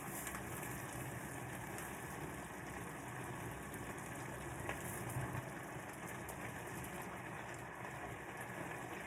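Curry cooking in a pan on the stove, a steady faint sizzle with small crackles over a low hum.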